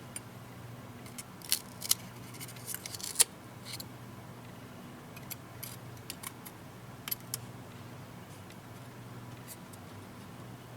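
Small tool clicking, snipping and scraping against a tablet's parts during a screen teardown, the sharp clicks bunched about one to four seconds in, then scattered. A low steady hum runs underneath.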